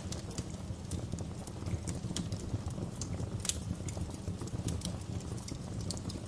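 Wood fire burning in a fireplace: a steady low rumble of flames with irregular sharp crackles and pops, the loudest pop about halfway through.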